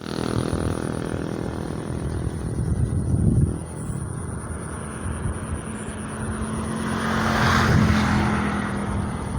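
A motor engine running with a steady hum. A louder swell of engine and noise rises and falls about seven to eight seconds in, as if something with an engine passes close.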